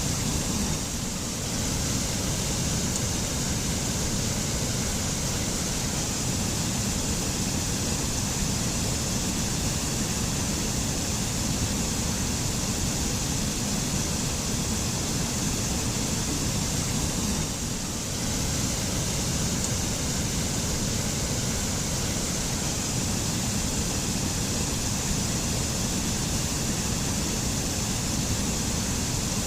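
Mountain waterfall rushing in a steady, even roar of falling water, with slight dips in level about a second in and again near 18 seconds.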